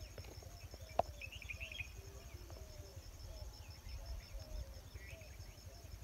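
Faint outdoor ambience: small birds chirping on and off over a steady low rumble, with one sharp click about a second in.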